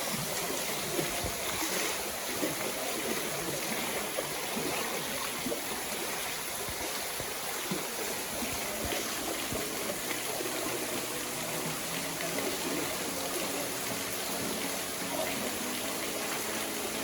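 Waterfall and running water rushing steadily, with splashing and trickling.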